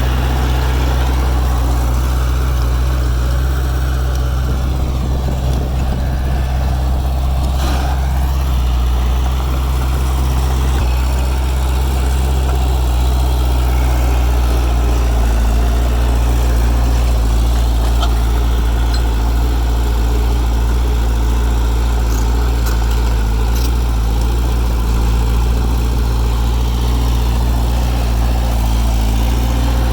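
Heavy diesel engine of earthmoving machinery running steadily at a constant speed, with a deep, even drone.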